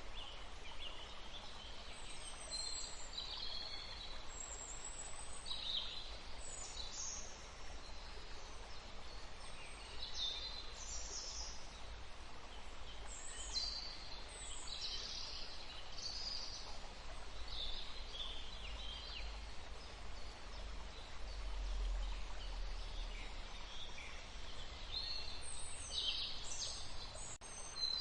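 Forest ambience: several birds chirping and calling in short, high-pitched phrases that come every second or so, over a steady soft hiss and a faint low rumble.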